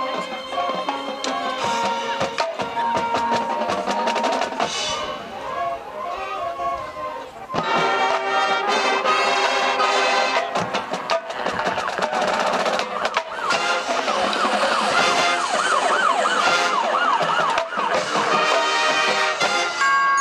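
High school marching band and front-ensemble percussion playing a field-show piece. The music thins to a softer passage, then swells louder about seven and a half seconds in. Later there is a stretch of wavering, siren-like tones.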